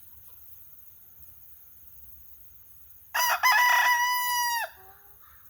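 A rooster crowing once, about three seconds in: a choppy start breaking into a long held note that cuts off.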